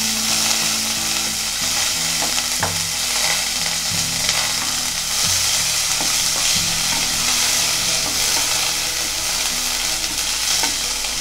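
Green peas, green chillies and cumin sizzling in butter in a stainless steel pressure cooker, stirred with a spatula that now and then scrapes or taps against the pot.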